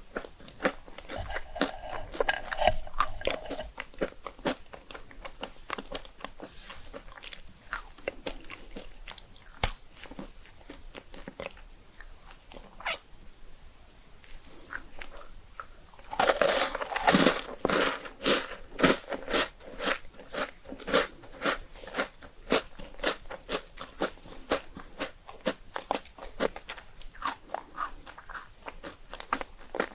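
Close-miked crunching and chewing of puffed rice cakes topped with Nutella and ice cream, a steady run of crisp crunches with a loud cluster about sixteen seconds in, as of a fresh bite.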